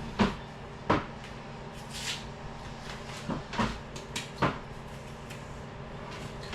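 Knocks and clunks of things being handled in a kitchen. The two loudest come within the first second, and several lighter ones follow between about three and four and a half seconds in.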